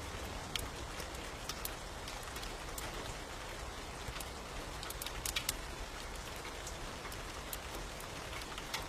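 Steady rain with the crackle of a wood fire: a continuous hiss with sharp pops scattered through it, a few of them close together about five seconds in.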